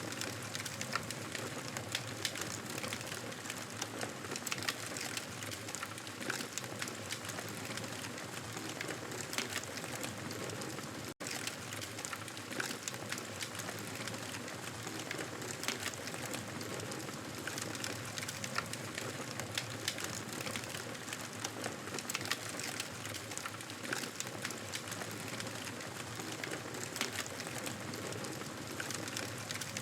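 Campfire burning with a steady hiss and frequent small crackles and pops from the burning wood. The sound cuts out for a split second about 11 seconds in.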